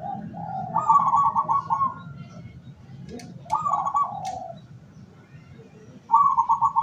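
Zebra dove (perkutut) singing: three short, rapid rolling cooing phrases, the last starting near the end.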